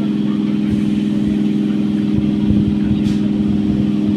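Electric multiple-unit local train running, heard from aboard: a steady electric hum over the rumble of the coach, with one short sharp click about three seconds in.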